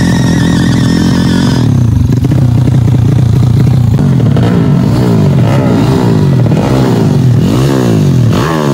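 Drag-race underbone motorcycle engines revving: a high held note for the first second or so, then throttle blips that rise and fall in pitch about once a second over a steady low drone.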